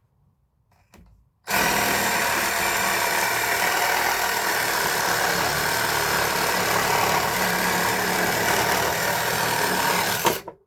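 Cordless reciprocating saw with an 8-inch construction timber blade, starting about a second and a half in and running steadily at full speed through a test cut, then stopping abruptly near the end.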